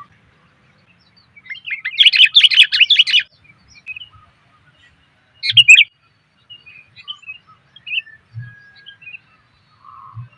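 Female sooty-headed bulbul (kutilang) giving lure calls to attract males: a dense burst of rapid chirps lasting about a second and a half, a short sharp call about five and a half seconds in, then fainter scattered chirps.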